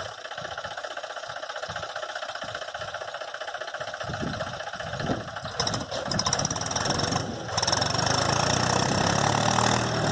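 Mahindra tractor's diesel engine running with a fast, even knock. It grows louder about six seconds in and louder again for the last couple of seconds.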